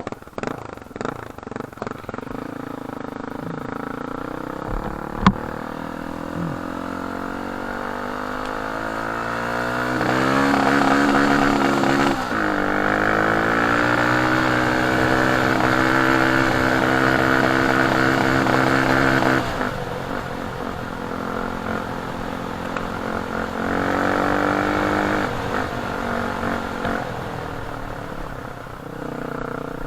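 Off-road cross motorcycle engine under way: it accelerates with rising pitch, eases off briefly, pulls up again and holds, then drops back and picks up once more near the end. There is a single sharp knock about five seconds in.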